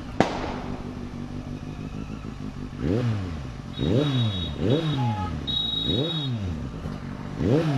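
Superbike engine idling, then blipped through about six quick throttle revs, each rising and falling in pitch. A sharp click comes just after the start.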